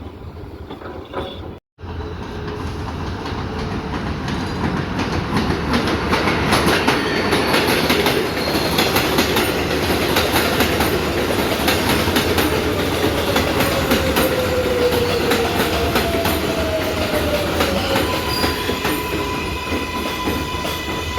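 R188 subway train running on the elevated Flushing Line, its wheels clattering steadily over the rail joints. A squealing tone glides downward partway through, and a steady whine with several stacked tones comes in near the end.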